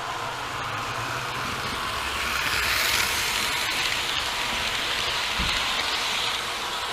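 Märklin model train rolling along the track with its wagons, a steady rushing hum that grows louder as it passes close by, then eases off near the end, with a single low thud about five and a half seconds in.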